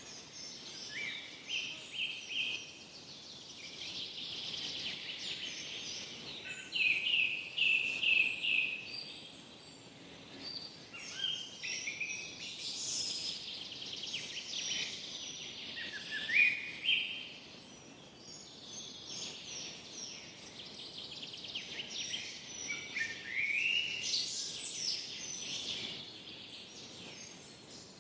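Several songbirds singing and chirping, in quick runs of short notes and rising whistles that come in bursts every few seconds, over a faint steady hiss of forest air.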